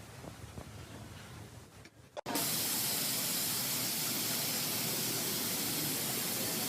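Faint low hum, then about two seconds in a loud, steady hiss cuts in abruptly and holds, even across all pitches.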